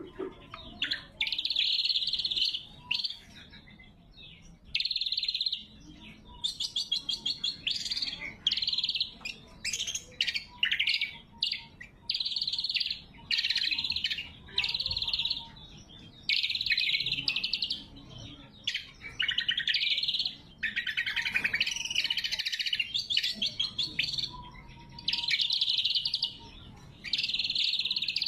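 Greater green leafbird (cucak kombo) singing actively: loud, high-pitched phrases of one to two seconds follow one another with short pauses, some of them rapid stuttering trills.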